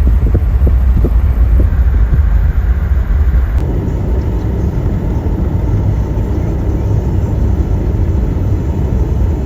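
A car driving: a steady, loud low rumble of road and engine noise, with a few light clicks in the first second and a half.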